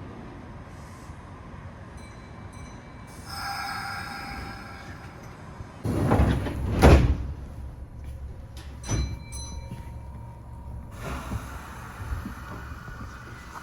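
Train doors closing: a short electronic tone, then the sliding doors shutting with a loud thud about seven seconds in, and a smaller knock a couple of seconds later, over the low rumble of the stopped train.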